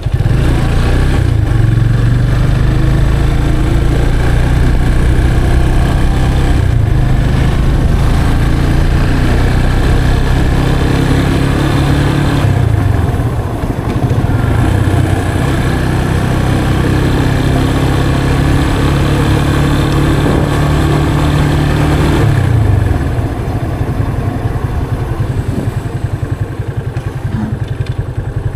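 Yamaha FZ 25's 249cc single-cylinder engine running under way through its stock exhaust, a steady low beat. It dips briefly about halfway, then drops to a lower, slower beat near the end.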